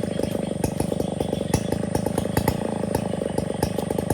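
Two-stroke chainsaw engine, the Stihl 070, running steadily at low speed with a rapid, even beat.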